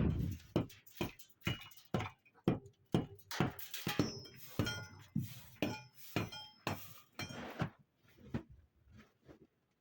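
Hard objects clinking and knocking against each other in quick succession, some strikes with a brief metallic ring. The strikes thin out near the end.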